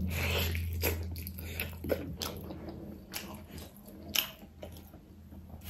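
A person biting into and chewing a pork trotter close to the microphone, with irregular short clicks of eating throughout.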